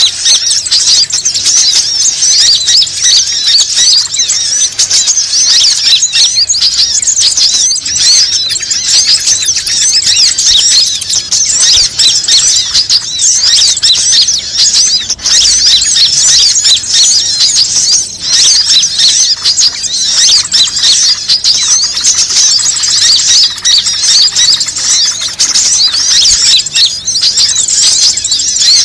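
Bird-luring (pikat) call recording: a dense, unbroken chorus of rapid high-pitched chirps and squeaky calls from many small birds at once.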